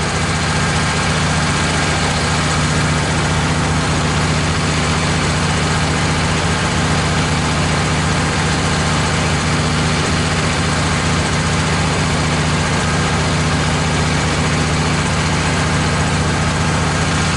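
Wood-Mizer LT15 portable bandsaw mill's engine running steadily at an even pitch.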